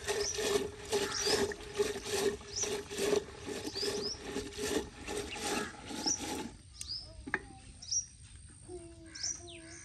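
A small bird chirping every second or so, over a rhythmic noise of about two strokes a second that stops about two-thirds of the way through.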